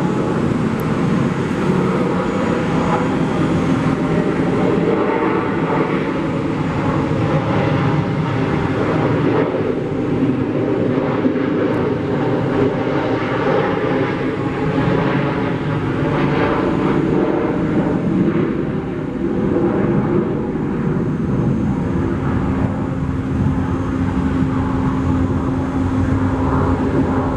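Jet airliner engines running, a loud steady noise with a faint steady hum that grows stronger near the end.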